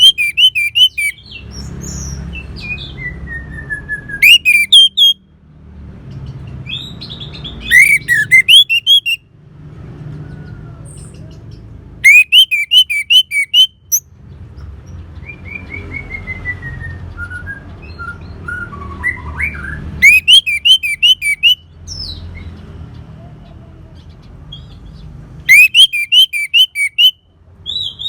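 Orange-headed thrush (anis merah) singing: loud bursts of rapid, high repeated notes about every four seconds, with softer gliding phrases in between. A steady low hum runs underneath.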